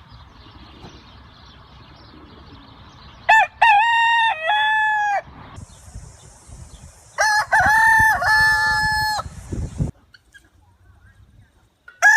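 Rooster crowing, a drawn-out cock-a-doodle-doo, twice, about four seconds apart, with another crow starting right at the end.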